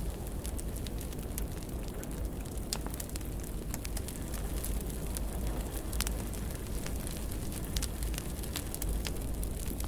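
Wood fire burning in a fireplace, a steady low rumble with frequent irregular crackles and pops.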